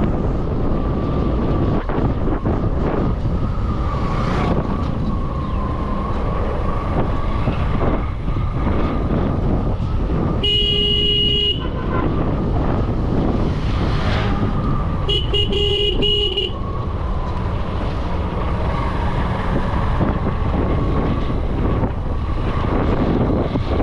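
Wind rushing over the microphone and road noise from a moving motorcycle, with two horn honks about five seconds apart, each a second or so long.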